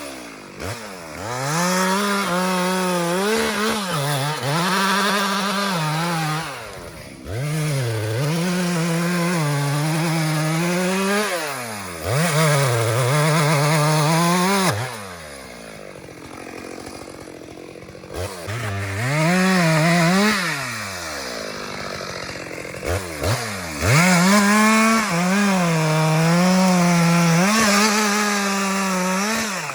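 Chainsaw revved to full throttle and cutting, its pitch wavering under load, then dropping back to low revs between cuts, about six times over. A quieter, lower-revving stretch comes about halfway through.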